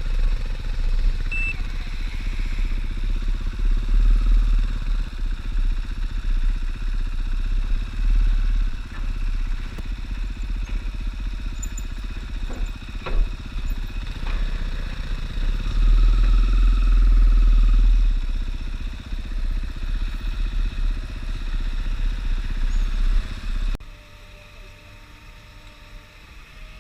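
Dirt bike engine running under way, with wind noise on the microphone and a few short knocks. Near the end the sound cuts to a quieter steady hum.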